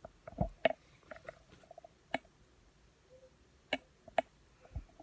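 A small cord clicking and tapping against the phone near its microphone: a handful of sharp clicks at uneven intervals, the clearest a little after two seconds and near four seconds in.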